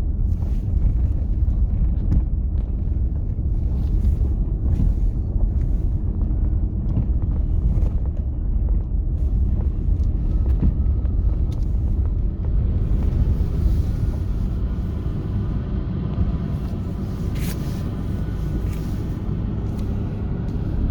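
Steady low outdoor rumble, with a brief hiss about three-quarters of the way through.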